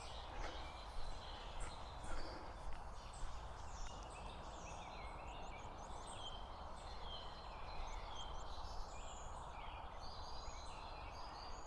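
Many short bird calls and chirps scattered throughout, over a steady low rumble of distant motorway traffic.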